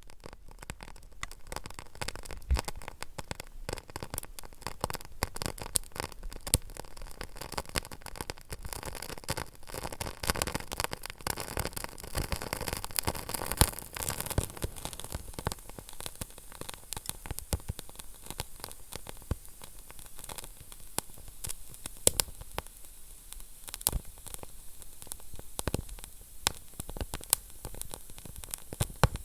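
Wood fire burning in a fireplace: steady hiss with dense, irregular crackling and a few louder pops.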